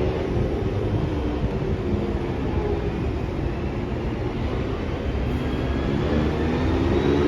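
SMRT C151B metro train pulling away from a station: steady running rumble, with the traction motors' pitched whine starting to rise in pitch about five seconds in as the train accelerates.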